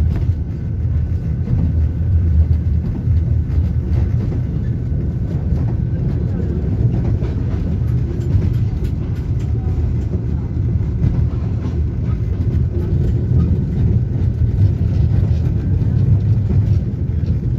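Passenger train running along the track: a steady low rumble with faint scattered clicks.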